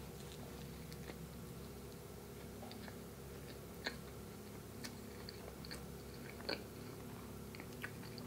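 A person chewing a mouthful of soft, jam-filled peanut butter doughnut: faint wet mouth clicks and smacks about once a second, loudest at about four and six and a half seconds in, over a steady low hum.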